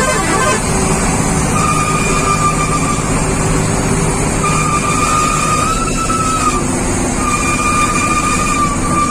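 Truck running loudly with a steady rumble, while a single high, horn-like tone sounds three times in long holds of one to two seconds each.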